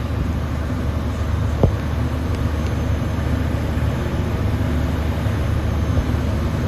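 Mercedes-Benz truck's diesel engine idling steadily while its air system builds pressure, with one sharp click about one and a half seconds in.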